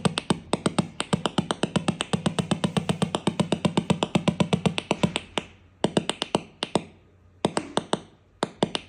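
Moxie companion robot's speaker making rapid, sharp clicks, about nine a second for the first five seconds, then breaking into short groups of clicks with gaps. It is a speaker fault of unknown cause, found in two units.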